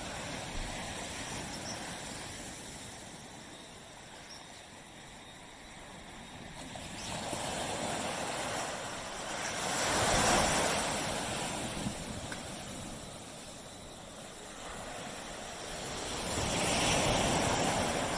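Ocean waves washing onto a beach, a steady rushing that swells and fades, with one wave surging about halfway through and another near the end.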